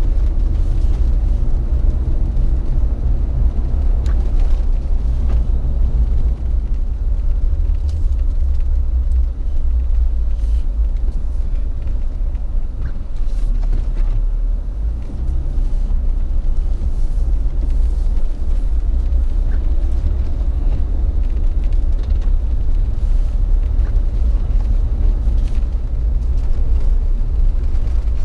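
Jeep driving slowly on snow- and ice-covered streets: a steady low engine and road rumble, with a few faint clicks.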